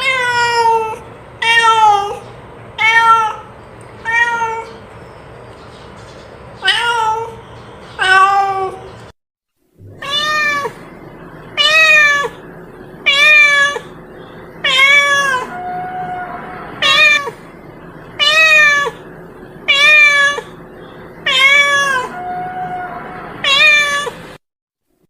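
A domestic cat meowing over and over, about fifteen separate calls each a second and a half or so apart, each call rising then falling in pitch. It is a cat-lure recording, used to call a lost cat. The sound cuts out for a moment partway through.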